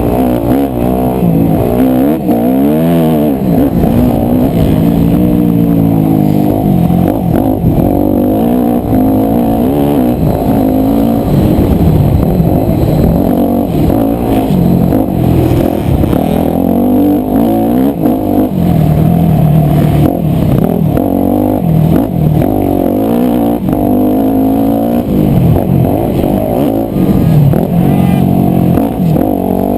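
250cc four-stroke motocross bike engine being ridden hard on a track, its pitch rising and falling over and over as the throttle opens and closes and the gears change. The sound is loud and muffled.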